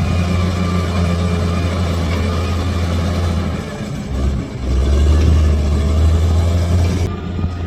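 Bulldozer's diesel engine running with a steady low drone. It dips briefly a little before halfway through, then comes back louder, and eases slightly again near the end.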